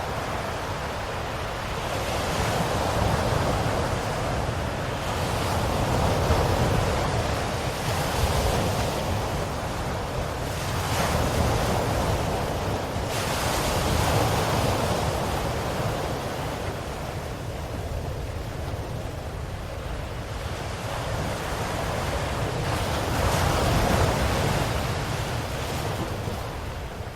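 Ocean waves breaking and washing in, in slow swells that rise and fall every few seconds over a steady low rumble of surf.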